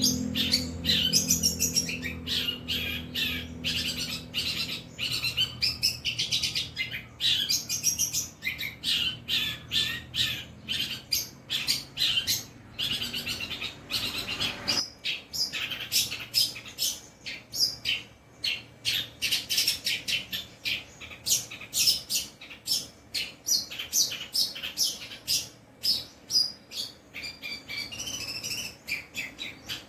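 Long-tailed shrike (cendet) singing a fast, unbroken run of chattering, chirping phrases. A low hum lies under the first half and stops about halfway.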